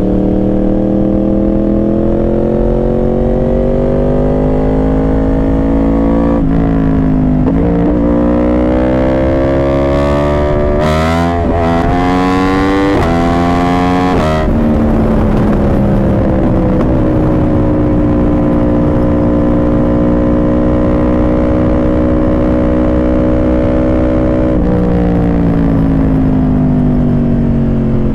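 Yamaha R1 inline-four sportbike engine through its exhaust, pulling hard and climbing in pitch through several quick gear shifts, then holding an even pitch at a steady cruise for about ten seconds before the pitch drops again near the end.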